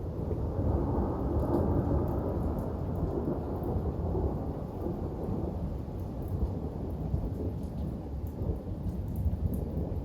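Rolling thunder, a deep rumble that swells over the first couple of seconds and then slowly fades, with rain falling throughout.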